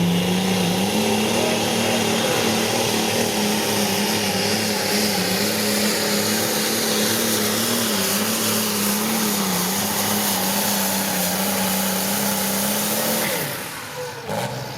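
Light limited super stock pulling tractor's turbocharged diesel engine running wide open under load. Its pitch steps up about a second in and holds with slight wavering, then drops off suddenly near the end.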